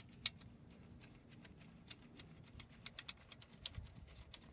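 Faint, irregular light clicks and taps of hands and a tool working at an alternator mounting bolt in a car's engine bay.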